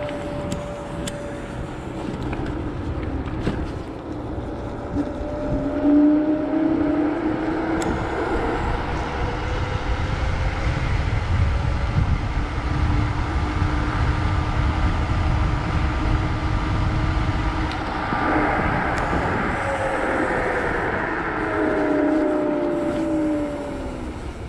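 Kaabo Wolf GT Pro electric scooter under way, its hub motor whining over a heavy rumble of wind and road noise. The whine rises in pitch as the scooter speeds up about five seconds in, holds steady, then falls as it slows near the end.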